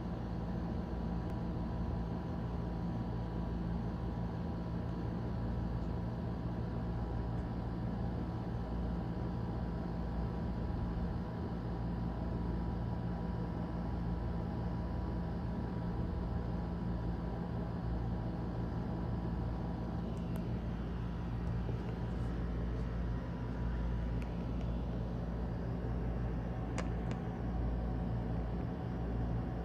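A steady mechanical hum from a motor or appliance, with a few faint high clicks or chirps in the second half.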